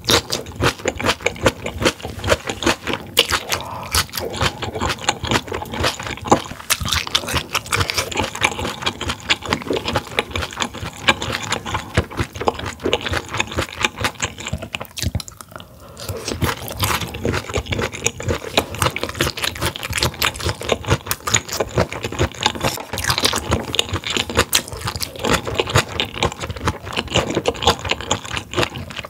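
Close-miked chewing and biting of grilled mullet gizzard: dense, rapid wet clicks of mouth sounds, with a brief lull about halfway through.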